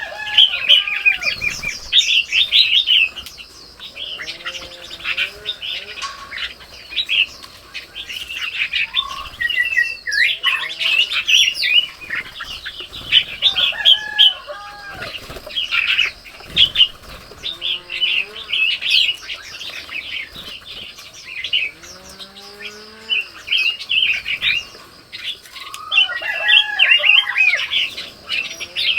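Birds chirping and calling in a dense chorus: rapid high chirps overlapping throughout, with occasional lower curved whistled notes.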